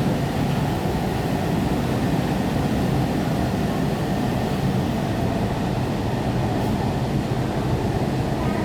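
Steady running rumble inside a moving metro train carriage.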